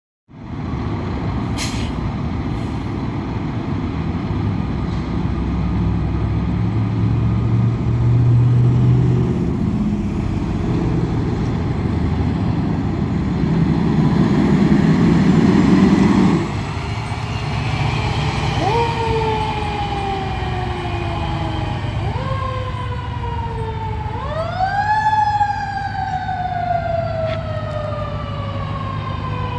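A fire truck's heavy engine runs loudly, its low rumble cutting off suddenly a little past halfway. Then the truck's Federal Q2B mechanical siren winds up quickly and coasts down slowly three times, the third wind-up the highest and still falling at the end.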